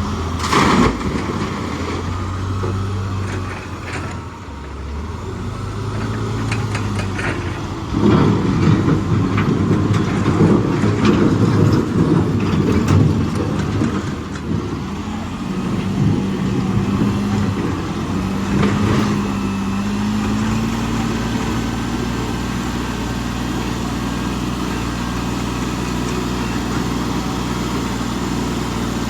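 Heavy diesel machinery engine running and revving, its pitch rising and settling partway through. A loud, rough clattering stretch in the middle fits rocks being loaded.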